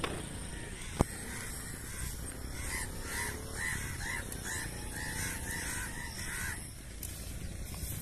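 A single sharp crack about a second in, then a bird giving a run of harsh, repeated calls, a few a second, for about four seconds.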